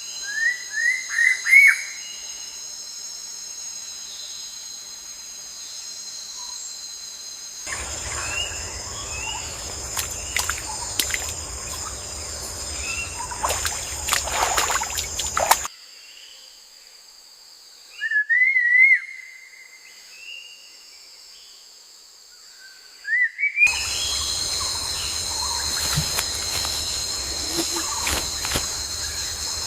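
Natural ambience of insects buzzing steadily in high bands, with short rising bird chirps: a quick run of chirps at the start, a longer chirping phrase about two-thirds of the way in, and another just after. The ambience switches abruptly a few times, dropping out and coming back.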